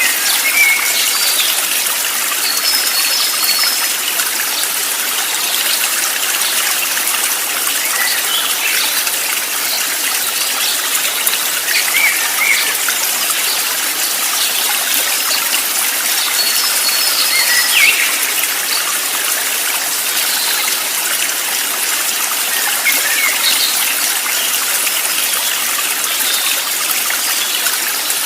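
Running water of a stream flowing steadily, with short bird chirps scattered over it every few seconds.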